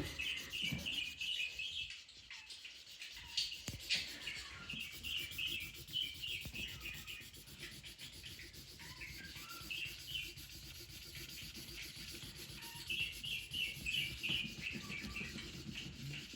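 Drawing on paper: a drawing tool scribbled back and forth in quick, short strokes.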